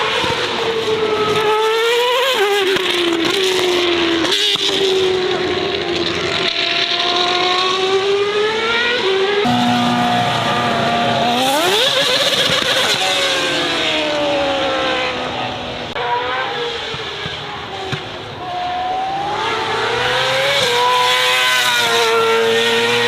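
Racing car engines revving hard, the pitch climbing under acceleration and dropping sharply at gear changes and lifts, several times over.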